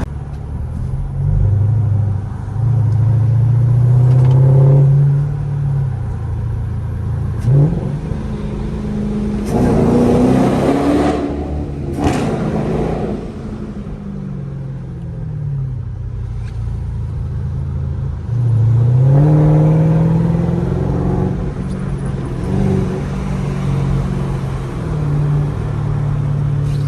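Straight-piped Dodge Durango exhaust, loud, revving up and easing off again and again as the SUV accelerates, with three big pulls: one a few seconds in, one about ten seconds in, and one near two-thirds of the way through.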